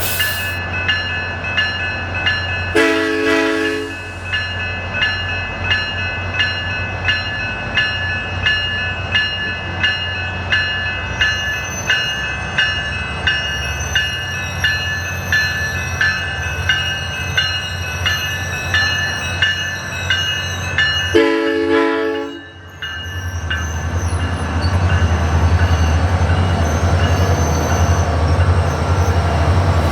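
Diesel train locomotive at a station with its engine rumbling and a bell ringing steadily, about one and a half strokes a second. The horn sounds two short blasts, about 3 seconds and 21 seconds in. The engine grows louder from about 23 seconds on, as if throttling up.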